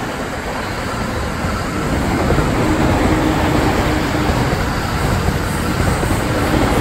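Electric commuter train running along the tracks just below, a steady rumble of wheels on rail that grows louder about two seconds in.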